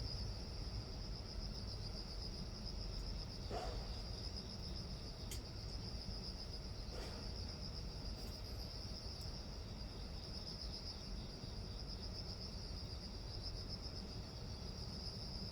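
Insects singing steadily outdoors, one continuous high, pulsing trill, over a low background rumble.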